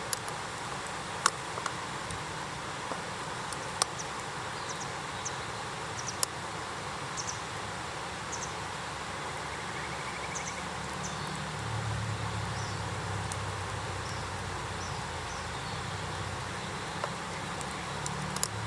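Wood campfire burning, a steady hiss broken by a handful of sharp pops of the burning wood. A low hum joins about twelve seconds in.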